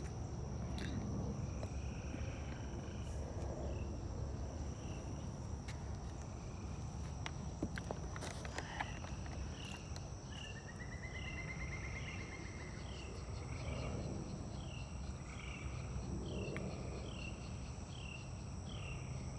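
Swamp wildlife chorus: insects holding a steady high-pitched drone, over which a short call repeats about twice a second, with a brief rising trill about ten seconds in.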